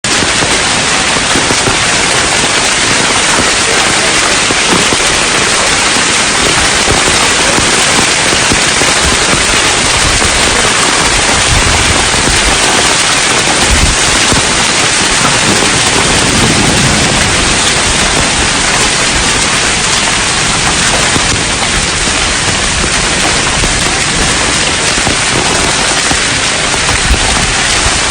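Heavy rain pouring steadily, a loud, dense, even hiss of drops hitting surfaces, with occasional low knocks.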